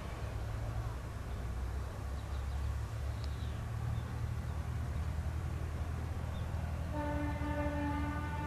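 Isumi 200' diesel railcar train rumbling along, then sounding its horn, one steady call of about a second and a half, near the end.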